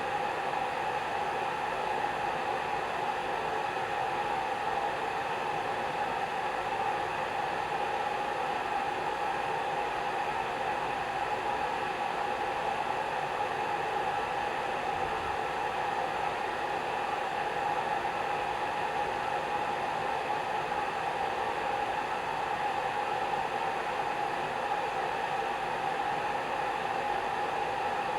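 Hair dryer running steadily: a constant rush of air with a steady hum running through it, unchanging throughout.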